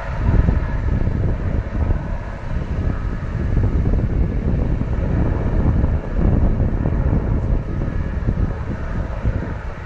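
Helicopter running close by: a loud, steady, heavy rumble of rotor and engine, with wind buffeting the microphone.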